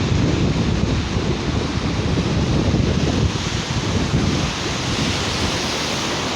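Sea surf washing onto a beach, with wind buffeting the microphone in a heavy low rumble.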